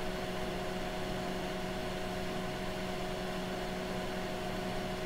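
Steady hum with an even fan-like hiss from running bench test equipment, holding several constant tones with no change.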